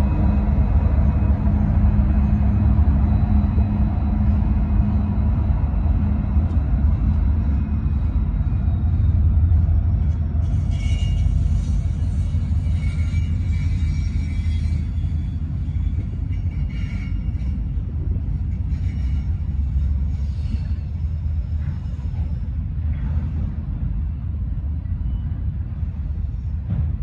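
Union Pacific diesel freight locomotives passing with a deep rumble and engine drone, which gives way to the steady rumble of freight cars rolling by. About ten seconds in a high metallic squeal with hiss runs for several seconds, followed by scattered clanks from the passing cars.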